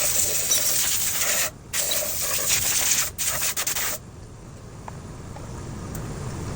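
A loud steady hiss, cut off briefly twice, then stopping in short stutters about four seconds in. After it, a low rumble slowly grows louder.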